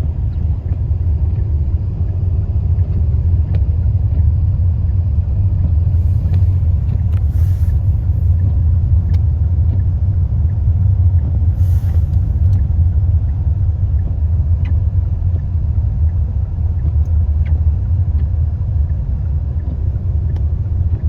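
Steady low rumble of a car driving on a highway, its road and engine noise heard from inside the cabin, with a few faint ticks and short hisses over it.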